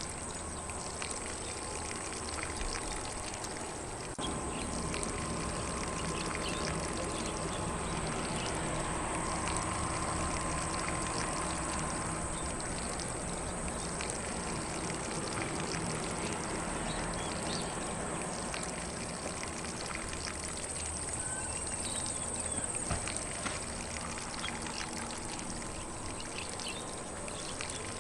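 Lawn sprinkler spraying water across grass: a steady, even rush of water.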